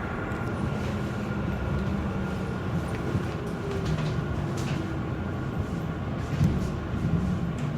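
Frankfurt U-Bahn train running, heard from on board: a steady rumble of wheels on rail. A faint motor whine falls in pitch around the middle, as when the train slows, and there are a few light clicks.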